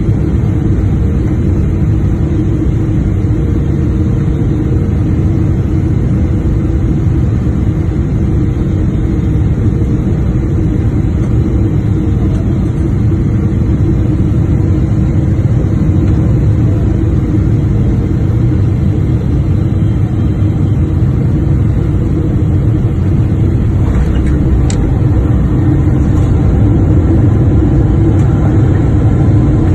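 Steady, loud low rumble of a Boeing 777-300ER's engines and airflow during the landing approach, with a few faint clicks about four-fifths of the way through and the rumble growing slightly louder near the end.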